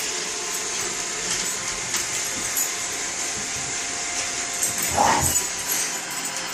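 Roomba robot vacuum running, a steady motor hum and whine with brush hiss. A brief louder sound about five seconds in.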